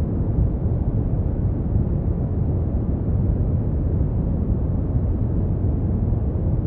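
Brown noise: a steady, deep rumbling hiss, strongest in the bass and fading out toward the treble, with no changes.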